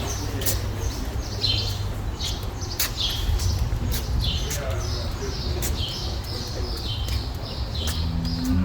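Small birds chirping over and over, short falling chirps in quick succession, over a steady low hum.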